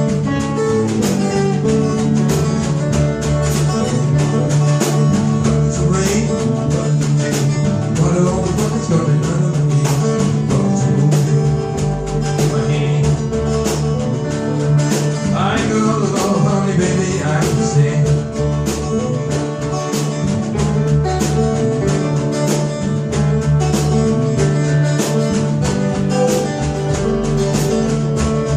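A blues-rock band playing in rehearsal: guitars over a low bass line and a steady beat, with a lead line bending in pitch about halfway through.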